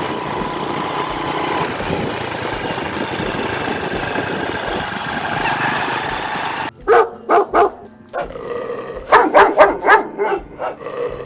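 A dog barking: three sharp barks a little after seven seconds in, then a quick run of about seven barks two seconds later, after a steady dense noise in the first part.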